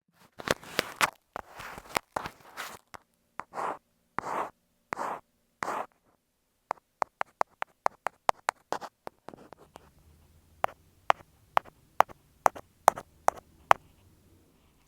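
Ear-cleaning tools scraping and tapping on an earphone microphone in close-up ASMR. First comes a series of short scratchy strokes, then from about halfway a run of sharp clicks and taps, quick at first and then about two a second.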